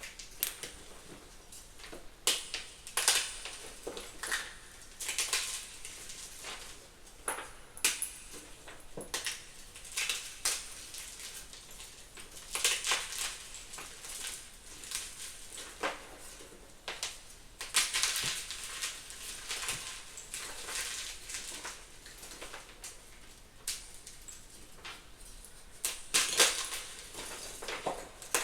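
Crunchy gym chalk being crushed: irregular crunching and crumbling in bursts every second or two, some sharper and louder than others.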